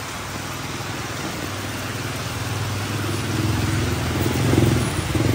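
A motorcycle engine running, growing louder over the second half, over a steady hiss.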